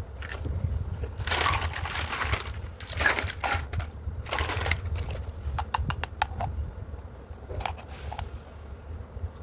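Hands handling plastic toy pieces and packaging: bursts of rustling, then a quick run of small clicks and a few more clicks near the end, over a steady low rumble.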